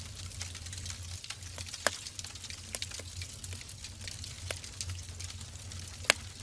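Wood fire burning in a fireplace: irregular crackles and pops from the burning logs over a steady low hum. Two sharper, louder pops come about two seconds in and near the end.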